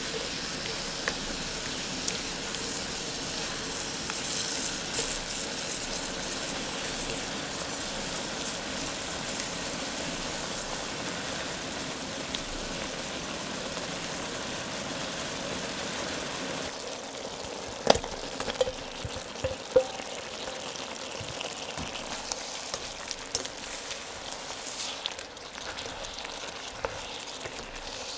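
Sliced peppers, carrot and onion sizzling in a shallow miso broth in a steel wok while a silicone spatula stirs them. About two-thirds of the way in the sizzle drops and a few sharp knocks follow.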